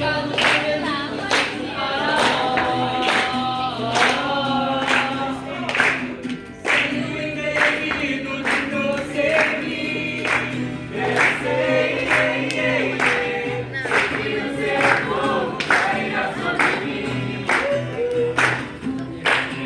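Brazilian gospel song with a choir singing over a steady beat.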